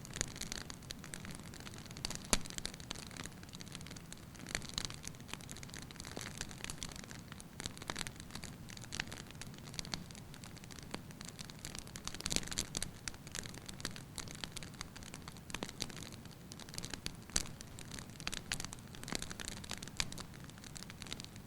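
Wood fire burning in a fireplace: a steady low hiss with irregular crackles and sharp pops from the logs, a few louder snaps standing out.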